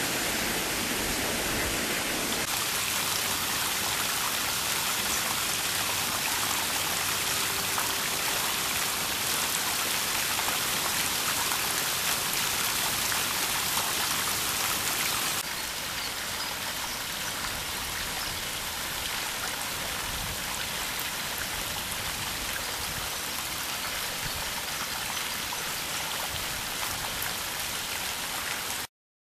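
Steady rushing noise with no clear bird calls. It drops a little in level about halfway through and cuts off suddenly near the end.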